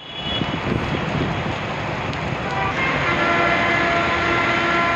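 Heavy rain pouring on a wet city road with traffic, a loud, even hiss of rain and tyres. From about halfway through, a vehicle horn joins in and holds one steady note to the end.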